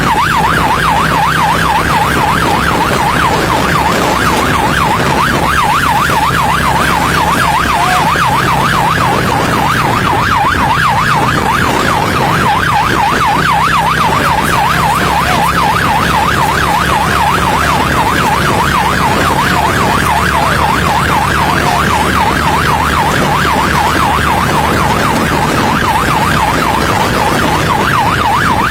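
Police siren in a rapid yelp, its pitch sweeping quickly up and down without a break, over the low steady hum of a running engine.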